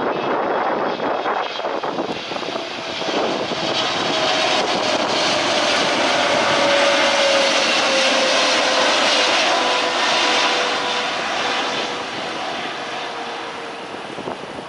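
Jet airliner passing close by. Its engine roar swells to a peak about halfway through and then fades, with a whine that slowly falls in pitch as it goes past.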